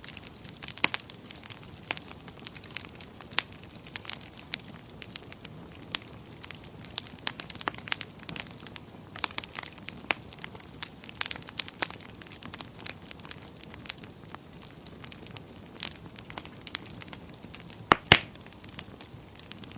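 Wood fire crackling in a fireplace: a steady soft hiss with many irregular sharp pops and snaps, the loudest pair about 18 seconds in.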